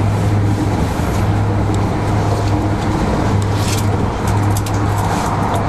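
Passenger train running at speed, heard from inside the carriage: a steady rumble of wheels on rail with a strong constant low hum, and a few brief clicks about two-thirds of the way through.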